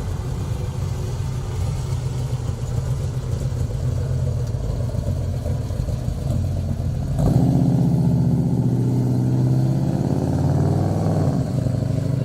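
The 572 cubic inch Gen 2 Hemi V8 of a restomod 1970 Dodge Charger running with a deep rumble through custom side-exit exhausts. About seven seconds in it steps up louder, its pitch wavering a little as it is revved.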